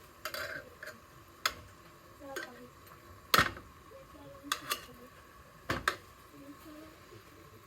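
Several sharp clinks and knocks of dishes and cutlery at irregular intervals, the loudest about three and a half seconds in, with faint voices beneath.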